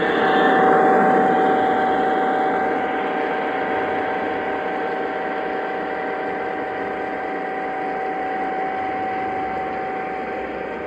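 Lionel O gauge Santa Fe E8 model locomotives running on three-rail track: a steady motor-and-wheel rumble with an even hum, loudest about a second in, then easing slightly as the train moves on.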